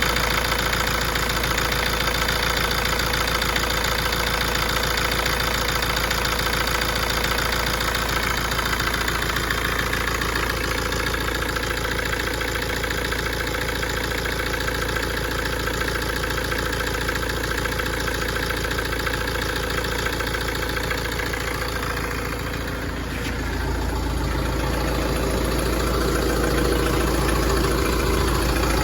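Tata Safari engine idling with a fast, steady clicking from the engine, the fault noise the owner is showing. The sound dips briefly and turns deeper about three quarters of the way through.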